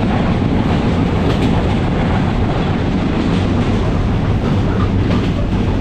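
Passenger train running at speed, heard from inside the coach: a steady, loud rumble of wheels on the rails and the coach's running noise.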